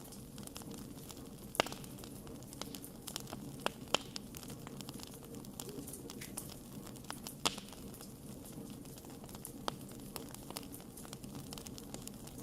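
Wood fire crackling and popping: a steady low rumble of burning with frequent small crackles and several sharper, louder pops scattered through.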